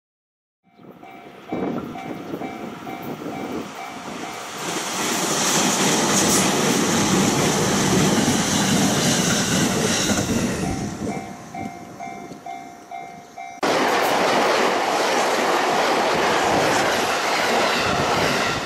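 A Japanese level-crossing warning bell dings about twice a second as a train passes on the line with wheel clatter. About fourteen seconds in, the sound cuts abruptly to another train rushing past close by.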